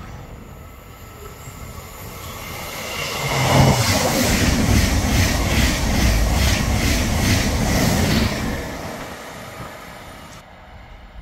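Eurostar high-speed train passing at speed. It swells to a loud rush of wheels and air about three seconds in, with an even beat of wheelsets for about five seconds, then fades away.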